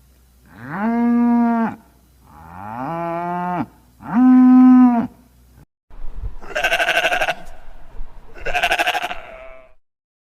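Farm animals calling: three clear, steady-pitched calls of about a second each, then after a short break two harsh, quavering bleats like a sheep's baa.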